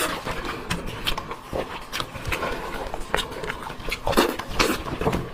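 Close-miked eating sounds: irregular wet chewing, smacking and biting, a quick run of short clicks and smacks.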